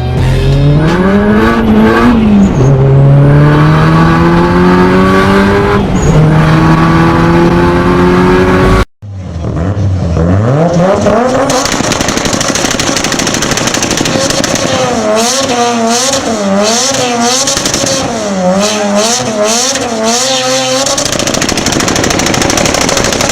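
Nissan Silvia engine revving hard through several gears, its pitch climbing and then dropping at each shift. After a sudden cut, another Silvia's revs rise, then swing quickly up and down as the tyres squeal.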